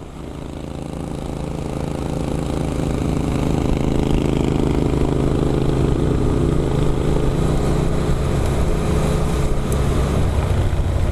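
Motorcycle engine running at a steady speed. It grows louder over the first few seconds, then holds steady.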